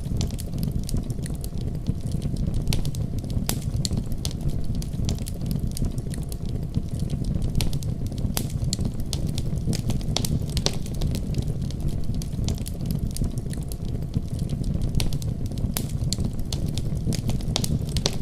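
Fireplace fire crackling, with irregular sharp pops and snaps, over a steady low rumble of a heavy snowstorm.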